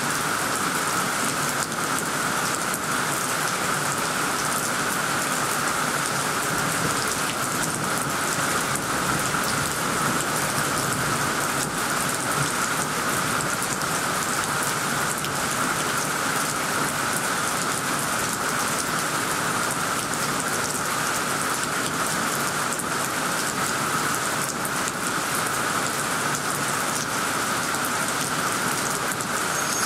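Heavy rain pouring steadily onto leafy trees: an even, unbroken hiss of a downpour, with faint scattered drop ticks.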